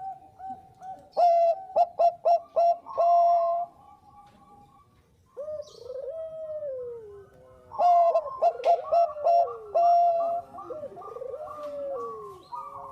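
Zebra doves (Bangkok-bred perkutut) cooing: fast runs of short staccato coos, with loud runs about a second in and again near eight seconds, and slower falling coos between them.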